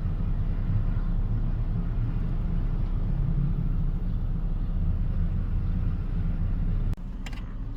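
Car running, heard from inside the cabin as a steady low rumble. The rumble drops suddenly about seven seconds in.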